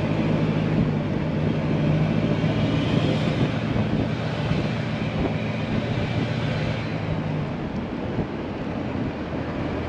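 A truck engine running at a steady pitch under a wash of road and wind noise, its hum fading about seven and a half seconds in.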